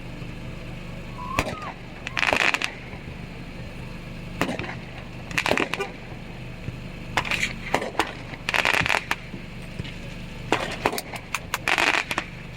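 Fireworks crackling and popping in short clustered bursts every second or two, over a steady low hum.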